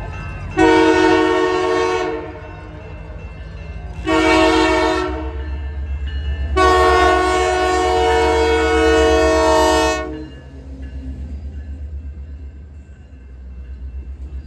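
Locomotive air horn on the CPKC Holiday Train sounding three blasts: a long one, a short one, then a longer one of about three and a half seconds. A low rumble from the train runs underneath.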